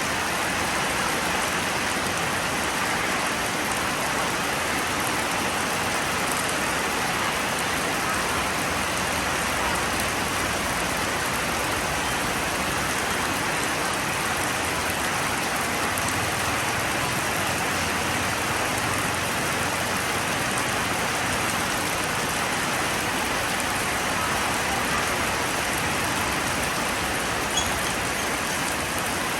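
Steady rain falling, an even hiss with no let-up, and one light tick near the end.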